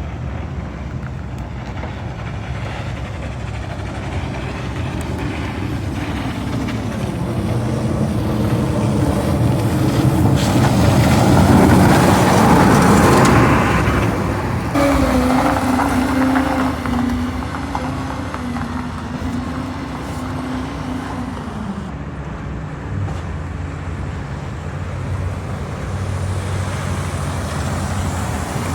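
Road traffic noise: a steady low rumble with a vehicle passing close, loudest about twelve seconds in, followed by a humming engine tone that drops in pitch a few seconds later.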